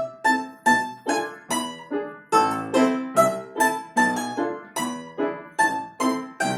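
Live music: a plucked string instrument playing an even run of notes, about two and a half a second, each plucked sharply and fading quickly, with piano accompaniment.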